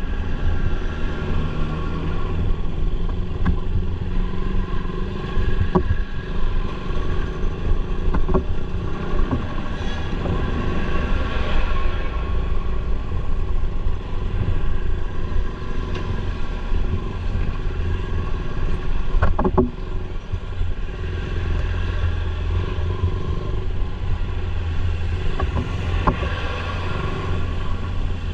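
Motorcycle engine running steadily while riding, under constant road noise, with a few sharp knocks or rattles along the way.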